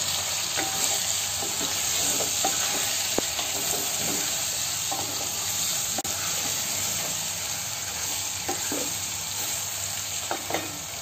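Chicken pieces sizzling in hot oil in a stainless steel pot while a wooden spatula stirs them, with scattered taps and scrapes of the spatula against the pot.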